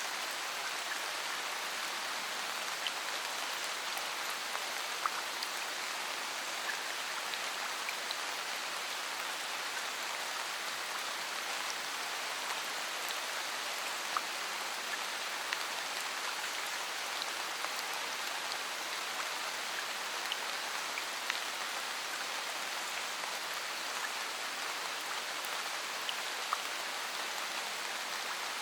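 Steady rain: an even hiss with individual drops tapping at scattered moments all through it.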